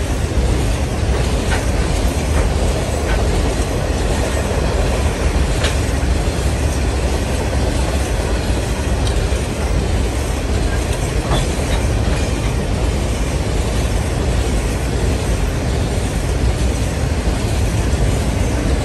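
Grain hopper wagons of a long freight train rolling past close by: a steady, loud rumble of wheels on the rails, with a few faint brief clicks and squeaks.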